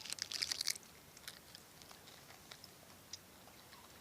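Potato chip being bitten and chewed, with a dense run of crisp crunches in the first second, then a few fainter crunches as the chewing goes on.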